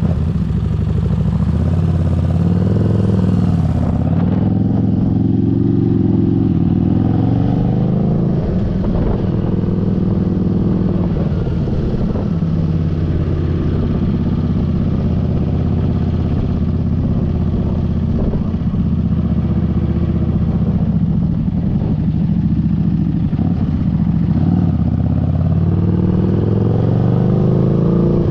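Motorcycle engine running steadily under way, its pitch rising as it speeds up and dropping back at gear changes, early on and again near the end.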